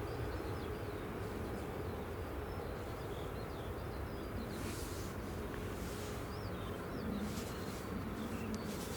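Small birds chirping, many short high calls, over a steady low rumble of outdoor background noise.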